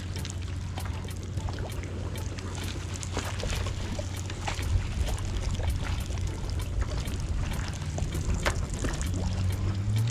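Thin coated pieces of cutlass fish frying in hot oil, sizzling steadily with many irregular crackles and pops.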